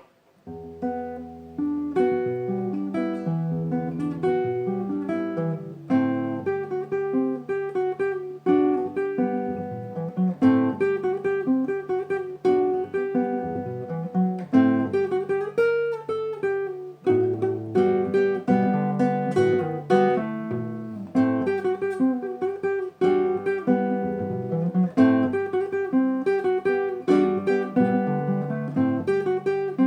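Acoustic guitar playing an instrumental tune, mixing plucked notes and strummed chords, starting about half a second in.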